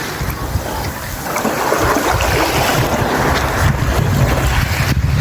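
Wind buffeting the microphone in a low rumble, over waves washing on a sandy beach; the rumble grows stronger in the second half.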